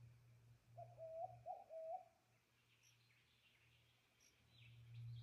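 A bird gives three short, evenly pitched notes in quick succession about a second in. Faint high twittering from small birds follows, over a low steady hum.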